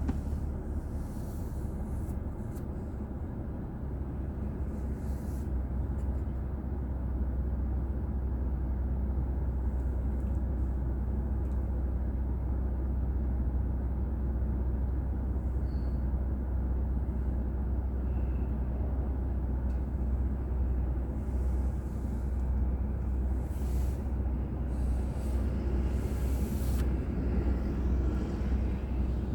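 Steady low rumble of a car driving on the road, engine and tyre noise picked up by a dashboard drive recorder inside the car. A few short hisses come in near the end.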